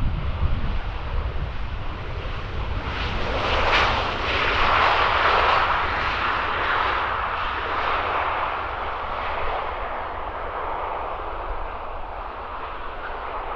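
Turkish Airlines Boeing 737-800 (737-8F2) jet engines as the airliner comes in to land. The jet noise swells to a peak about four to seven seconds in, then fades slowly, with wind buffeting the microphone throughout.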